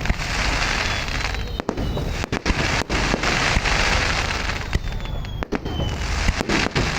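Finale fireworks barrage: continuous, densely overlapping booming bursts and crackling.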